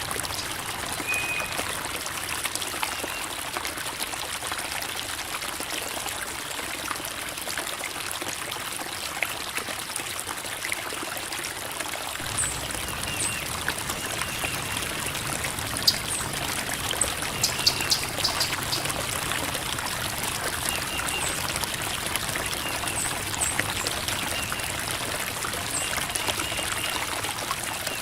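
A shallow creek babbling and trickling over rocks: a steady rush of running water with small splashes.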